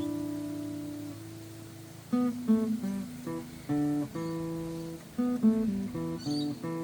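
Steel-string acoustic guitar played one note at a time in blues phrases: a ringing note fades over the first two seconds, then short runs of plucked single notes follow.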